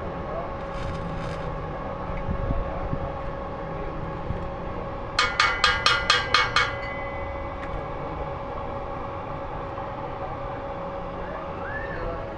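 A steady machine hum runs throughout. About five seconds in, a quick run of about eight ringing metal strikes, like hammer blows on steel, is the loudest sound. It falls during work welding a new exhaust onto a truck.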